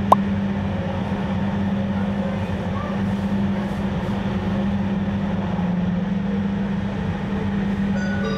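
Inside a Jakarta LRT light-rail train car while it is under way: steady running noise with a constant low hum.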